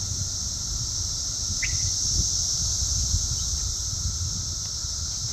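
Chorus of 17-year periodical cicadas (Brood XIII) singing: a very loud, dense, steady high-pitched drone, with one short chirp about a second and a half in.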